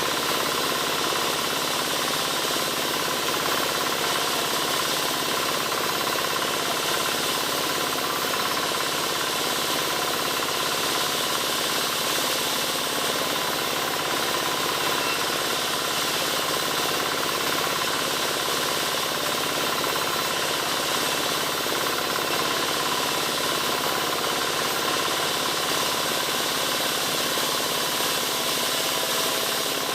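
Wood-sawing machine running steadily without pause, a loud, even mechanical drone with no change in load.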